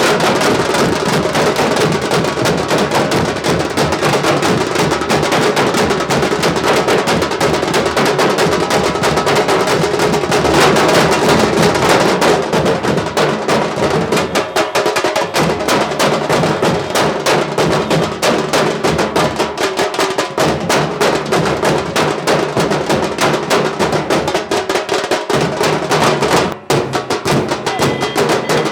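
Nashik dhol troupe drumming: big barrel dhols and sharp tasha drums beating a fast, dense rhythm together, with a momentary break near the end.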